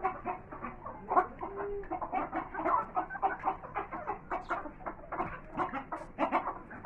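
A flock of Aseel chickens clucking, many short clucks overlapping one another, with one brief drawn-out call a little after the start.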